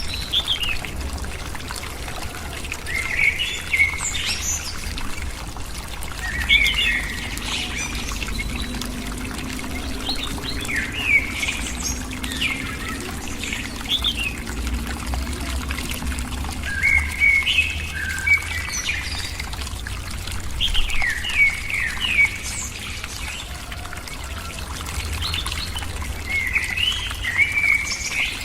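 Bird calls: short chirping phrases repeated every few seconds, over a steady low hum.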